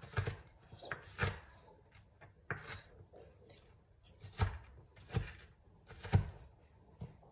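Knife slicing an onion on a cutting board: separate knocks, unevenly spaced, about one a second.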